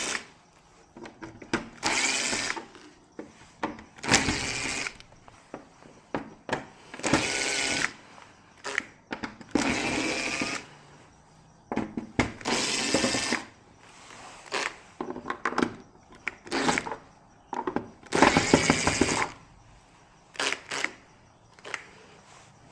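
Small handheld power tool motor whirring in short bursts of about a second, repeated every two to three seconds, with light clicks and knocks between the bursts.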